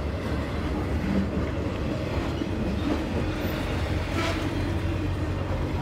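Slow CSX intermodal freight train rolling past, its trailer-laden flatcars giving a steady rumble of wheels on rail, with one brief knock a little past four seconds in.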